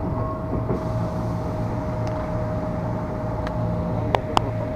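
KRL Commuterline electric commuter train running, heard from inside a crowded carriage: a steady rumble and hum with a constant high tone running through it. Two sharp clicks come near the end.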